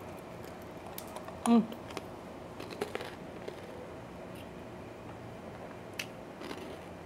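A person chewing a mouthful of grilled steak sandwich on grilled bread, with scattered faint crunches and mouth clicks. About a second and a half in comes a short hummed "mm" that falls in pitch, the loudest sound here.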